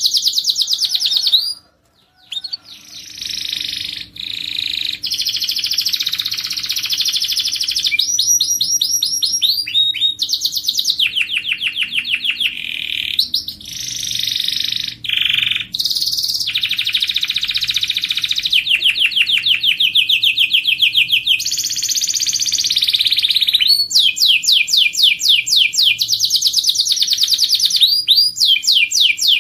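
Domestic canary singing: a long song of rapid, high-pitched trills and rolls, one phrase following another, with a brief pause about two seconds in.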